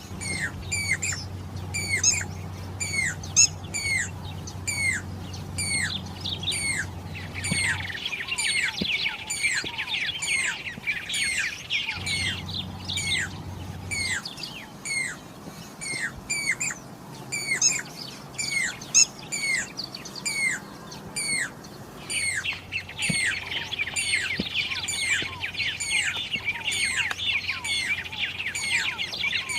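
Jacobin (pied) cuckoo calling: a long series of sharp, high whistled notes, each falling in pitch, repeated about twice a second. Stretches of faster, denser chattering notes come in twice, about eight seconds in and again after about twenty-two seconds.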